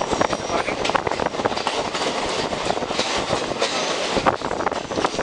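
Passenger train running along a curving hill line, heard from an open coach doorway: a steady rumble and rush of air with wheels clattering irregularly over the rail joints.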